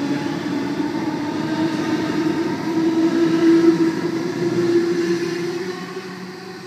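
Sydney Trains Waratah (A set) electric train pulling away from the platform, its traction motor whine rising slowly in pitch, then fading as the train draws off near the end.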